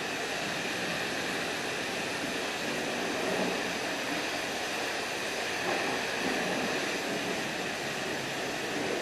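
High-pressure wand at a self-service car wash spraying water against a truck and its snow plow, a steady hiss.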